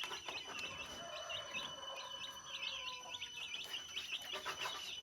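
Quail chirping: many short, quick chirps in irregular clusters, over a faint steady high whine.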